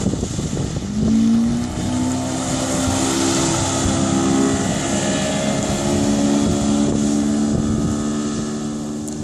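Suzuki DT140 two-stroke outboard motor running under way: the engine note rises about a second in, then holds steady, with wind buffeting the microphone.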